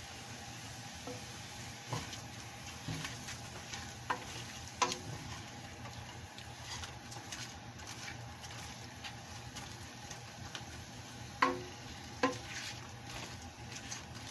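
Whole shrimp sizzling in a pot as they are stirred with a wooden spatula, with a few sharp knocks of the spatula against the pot, the loudest a little past the middle.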